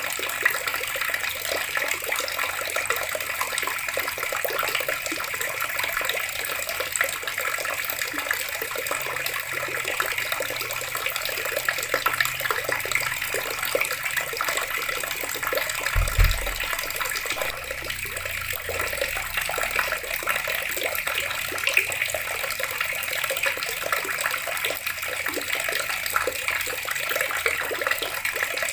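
Water running steadily from a tap, a continuous splashing hiss. There is a brief low thud about halfway through.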